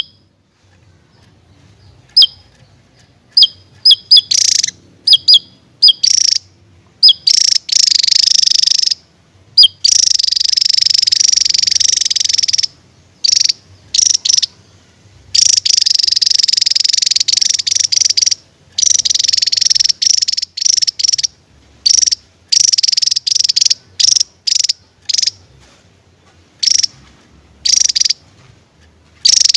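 Javan tesia singing loudly: a few short, high chirps, then long runs of rapid, buzzy trilling lasting a couple of seconds each, broken by brief pauses.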